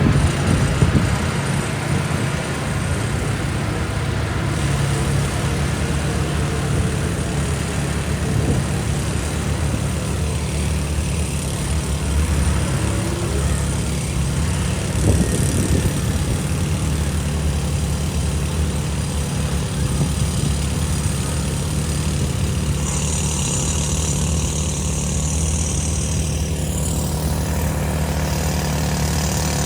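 Heavy machine's diesel engine running steadily with a low, even drone.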